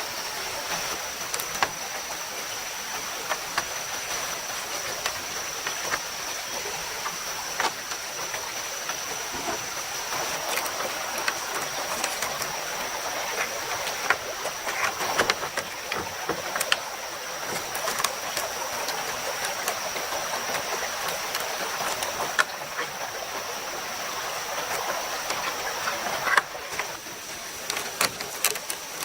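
Mountain stream rushing steadily, with a thin, steady high-pitched tone over it and scattered light knocks and clicks.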